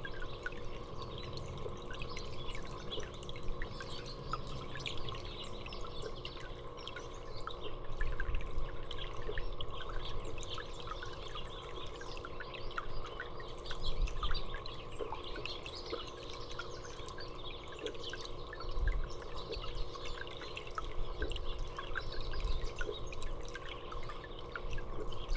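Water trickling and dripping steadily, with small birds chirping now and then and a low hum underneath. A few low bumps come and go.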